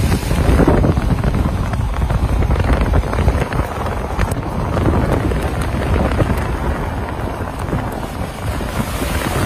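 Wind buffeting the microphone over a steady, loud rushing noise.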